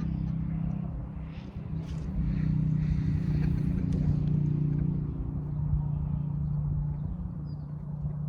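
Farm tractor engine running steadily, growing louder about two seconds in.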